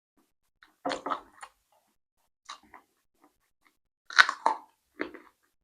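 Close-up mouth sounds of a person eating: chewing and crunching food in a few separate bursts, with a sharp click about four seconds in.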